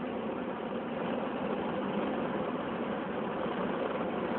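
Peugeot 208 GTi's 1.6-litre turbocharged four-cylinder engine pulling hard under full throttle, heard from inside the cabin together with road and wind noise. It is a steady drone that grows slightly louder.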